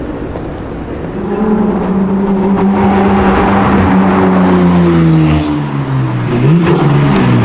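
Supercar engine driving past. Its note holds steady, falls away, then rises sharply about six and a half seconds in as it revs up again.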